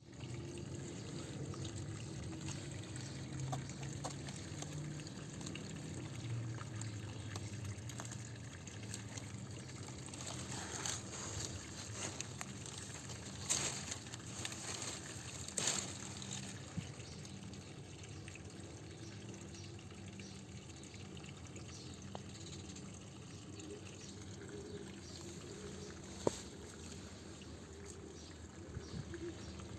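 Water pouring and trickling steadily, with a few sharp clicks.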